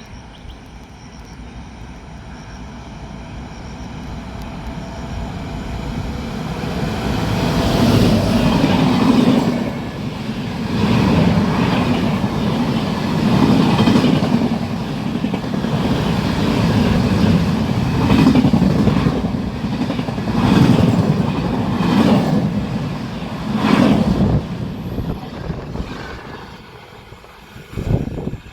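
High-speed passenger train approaching and passing close by. The noise builds over several seconds, then comes a loud rush of wheels with repeated surges and sharp clatter at rail joints, fading away near the end.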